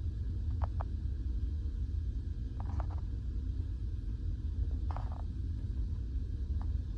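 Steady low rumble of the car ferry Armorique's engines and hull vibration, heard on board, with a few faint brief higher sounds over it.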